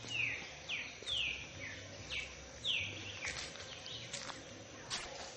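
Bird calling: a string of short, high chirps, each sliding downward in pitch, about one every half second to second, over a steady outdoor background hiss.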